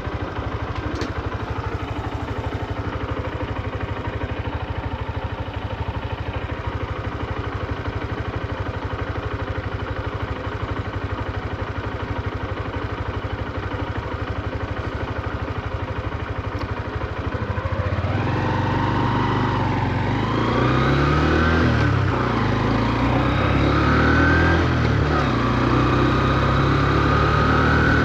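Honda CB125F's single-cylinder four-stroke engine idling steadily, then about two-thirds of the way in pulling away. Its note rises and drops back several times as it shifts up through the gears, kept to low revs while the new engine is run in.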